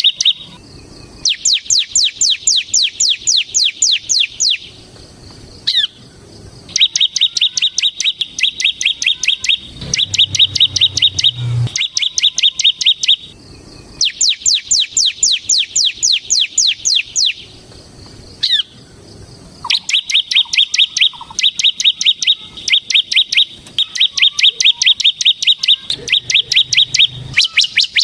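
Bar-winged prinia (ciblek) singing in long, fast runs of evenly repeated high notes, about six or seven a second. Each run lasts three to four seconds and is followed by a brief pause, and there is an occasional single down-slurred note between runs. This is the continuous drilling song (ngebren) that keepers use as a lure and tutor for other songbirds.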